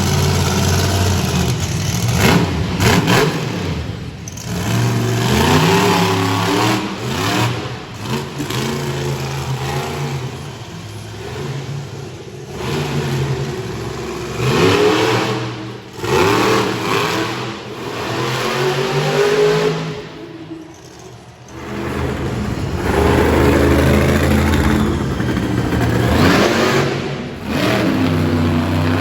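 Monster truck engine revving hard again and again, its pitch rising and falling with each throttle stab, easing off briefly about two-thirds of the way through before revving up again.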